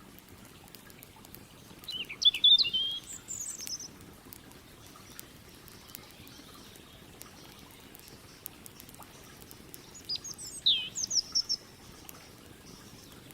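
A songbird sings two short, quick twittering phrases about eight seconds apart. Between them runs a steady low rush of the river, with faint crackles from the campfire.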